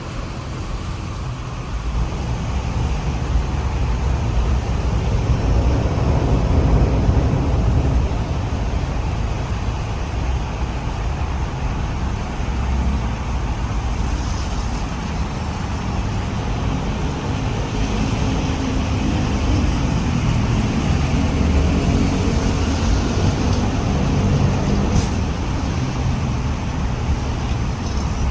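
Kiha 48 diesel railcar running, a steady low rumble of engine and running gear with an engine note rising a little past the middle.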